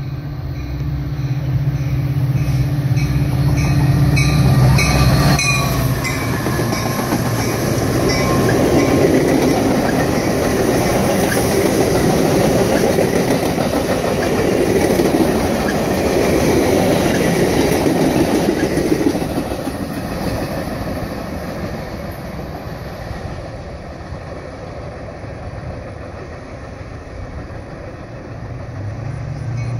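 Metra commuter train passing at speed: a steady low hum as it approaches, then about thirteen seconds of bilevel passenger cars rolling by, their wheels rumbling and clicking over the rails, fading as the train draws away.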